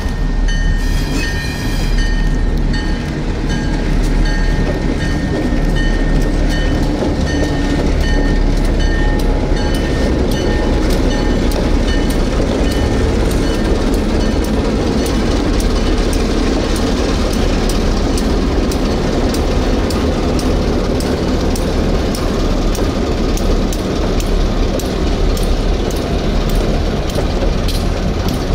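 A train rolling along with a steady heavy rumble and a rhythmic clickety-clack of wheels over rail joints, the clicks coming faster toward the end.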